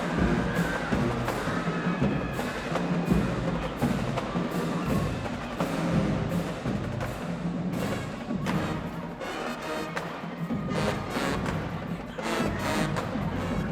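Marching band playing, led by drumline percussion in a quick steady rhythm, with some held pitched notes in the first half. The drum strokes are sharpest in the second half.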